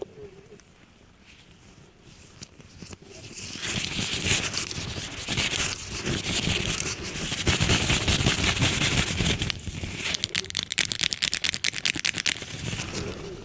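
Close-miked ASMR trigger sounds. Dense scratching and crackling builds up about three seconds in, then gives way near the end to a quick run of sharp taps or clicks.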